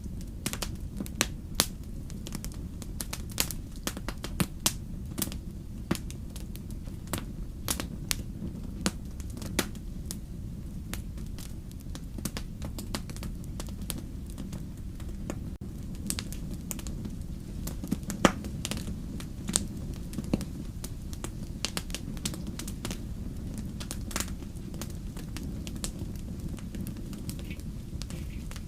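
Wood fire crackling: a steady low rumble of flames with irregular sharp snaps and pops, a few louder ones.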